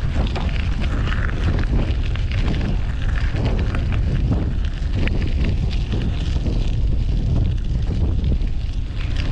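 Wind buffeting the microphone of a camera carried on a moving bicycle: a steady, heavy low rumble, with scattered short clicks and rattles over it.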